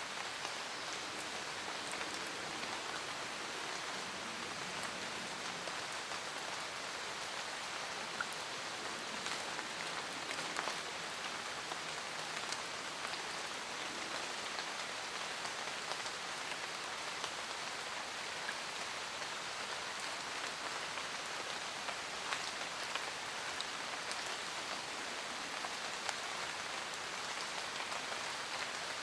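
Steady rain pattering on a camper van roof, with many small scattered drop ticks.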